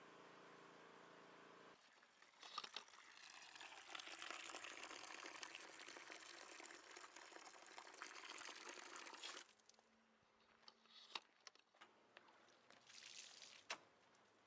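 Water spraying onto a car during a wash: a hiss of spray for about seven seconds that cuts off, then scattered clicks and a short second burst of spray near the end. A steady hum stops just before the spray begins.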